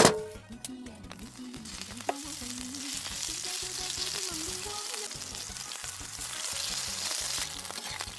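Meat sizzling on a hot Korean barbecue grill, the hiss building up about three seconds in. A sharp knock at the very start.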